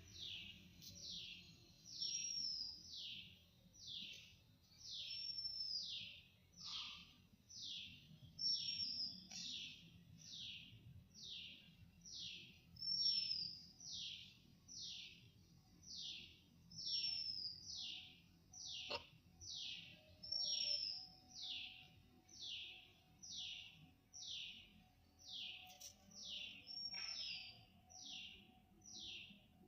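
A bird calling repeatedly: a steady series of high, downslurred notes, about one and a half a second, with a short hooked note mixed in every few seconds.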